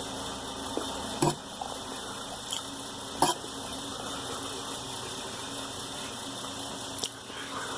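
Eating ramen from a bowl: a few sharp clicks of utensils against the bowl, about a second in, a little after three seconds and near the end, over a steady background hiss.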